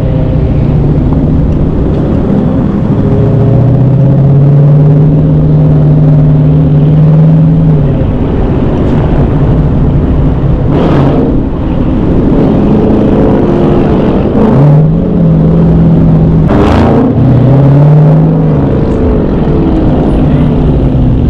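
V8 muscle-car engine running loudly, revved up and held at higher revs for several seconds three times, with two brief sharp cracks in between.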